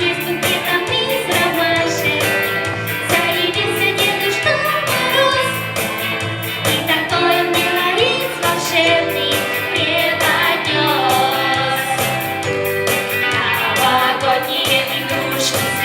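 A song with instrumental backing and a steady beat, with singing over it.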